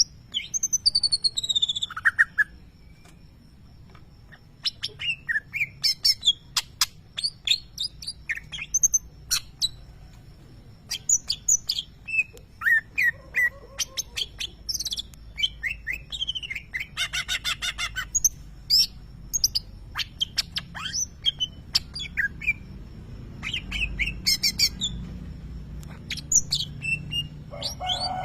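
A cucak ijo (green leafbird) singing a varied, loud song of short chirps, down-slurred whistles and rapid clicking trills, with brief pauses. The song includes the mimicked lovebird calls this bird is kept for.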